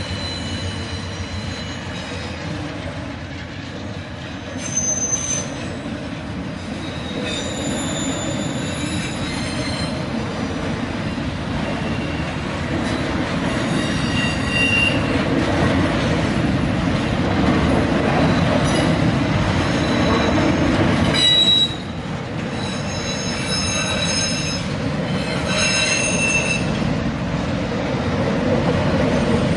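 Freight train of autorack cars rolling past: a steady rumble of steel wheels on rail, with short high-pitched wheel squeals every few seconds. The rumble grows louder toward the middle and drops suddenly about two-thirds of the way through.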